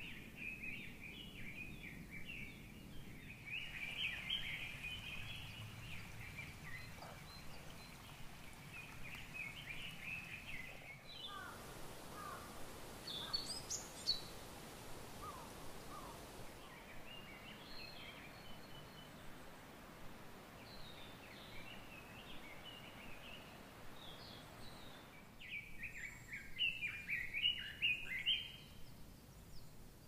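Wild birds singing, many short quick chirping phrases over a steady outdoor hiss. The background changes abruptly a few times, and the loudest, busiest stretch of song comes near the end.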